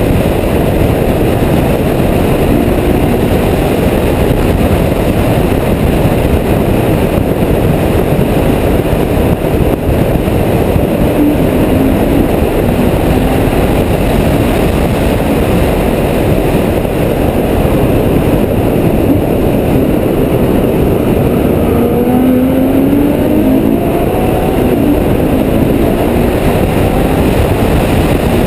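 Ferrari F12berlinetta's V12 engine running at speed, heard through heavy wind rush on a camera mounted outside on the car's body. Its note rises in pitch twice as the car accelerates, once near the middle and again about three-quarters of the way through.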